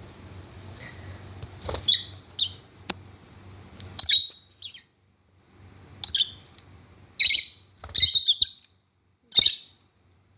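Lovebirds giving short, shrill squawks and chirps, about eight in all, as they bicker in their cage.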